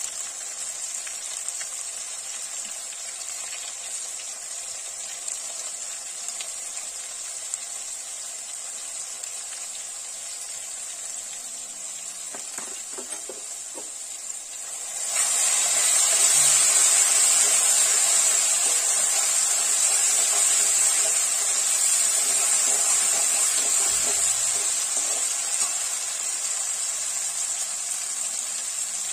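Onions and spices frying in hot oil in a steel wok: a steady sizzle that turns much louder about halfway through, when the spiced onion mixture is being stirred with a spoon, and eases a little near the end.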